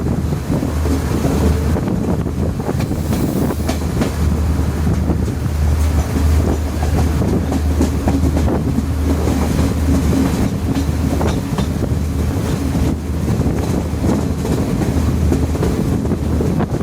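Diesel multiple-unit train running at speed, heard from on board: a steady low rumble with scattered wheel clicks over the rails.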